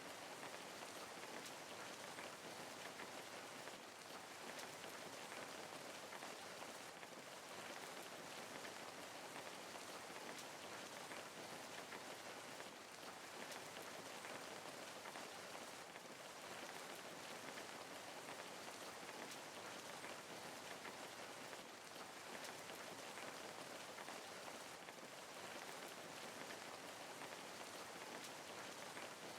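Steady rain falling, a soft even hiss of many fine drops pattering on a surface.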